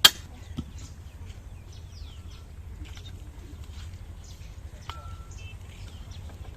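A sharp metallic strike with a short ringing note right at the start, and a fainter one about five seconds in, like a hammer hitting metal. Between them, birds chirp over a steady low hum.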